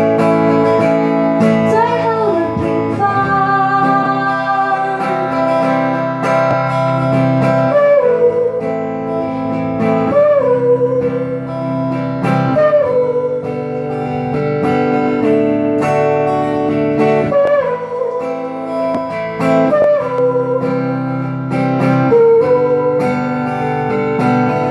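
Acoustic guitar strummed in steady chords, with a singing voice carrying a sliding melody over it.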